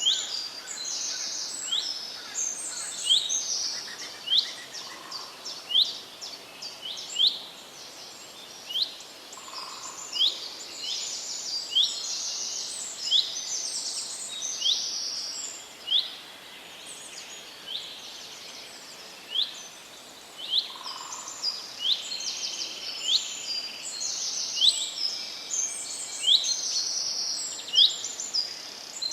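Several birds singing at once in a forest chorus: many short, high chirps and quick trills overlapping over a steady background hiss. A soft, lower call sounds now and then.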